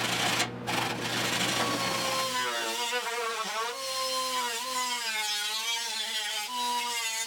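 A handheld power tool running on sheet metal. For about two and a half seconds it makes a harsh grinding noise over a low hum, then it settles into a whine whose pitch wavers up and down. It cuts off suddenly near the end.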